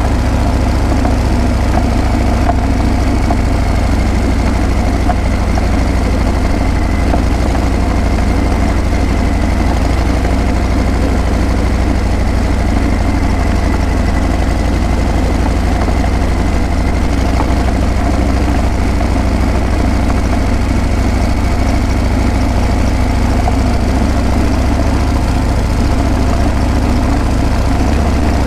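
Harley-Davidson Breakout's V-twin engine and exhaust running steadily with a deep, even rumble, with no revving.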